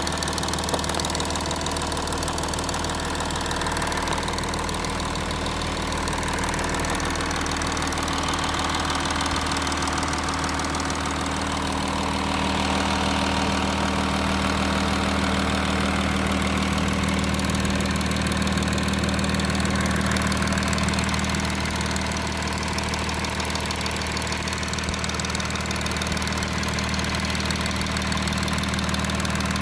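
Audi A6 4G engine running steadily at idle, with no clicking from the passenger-side exhaust camshaft, which has just been replaced.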